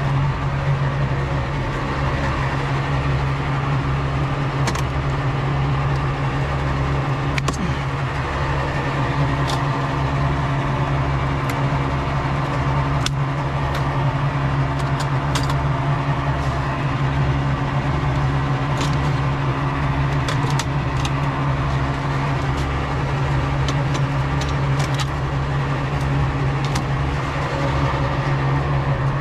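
A steady motor drone with a low throb pulsing about twice a second, with scattered light clicks and taps over it.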